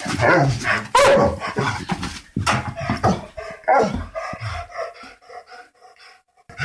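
A dog barking repeatedly in short, sharp barks, followed by a quieter run of quick, high yips or whines.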